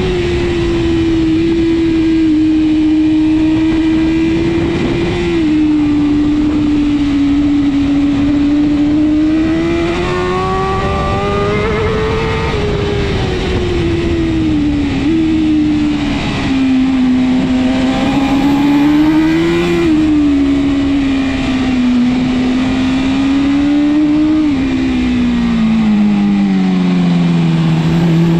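BMW S1000RR inline-four superbike engine at racing speed, its pitch climbing under throttle and sinking under braking through the corners, with a few sudden steps in pitch at gear changes, over a steady rush of wind.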